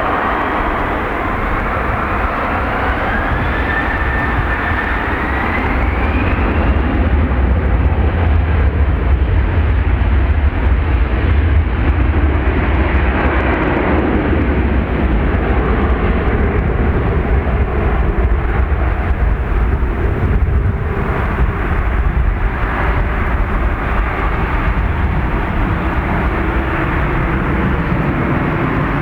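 Mitsubishi CRJ-900LR's two rear-mounted turbofan engines at takeoff thrust as the jet departs. A whine rises in pitch over the first several seconds, then a deep rumble swells, loudest in the middle, and eases a little toward the end.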